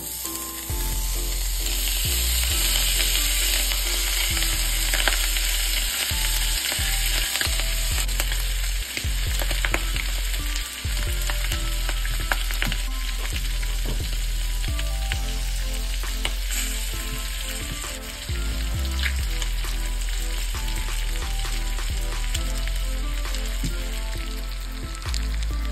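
Chopped pork, onion and garlic for sisig sizzling steadily in a hot pan, with scattered clicks and scrapes from a silicone spatula stirring it.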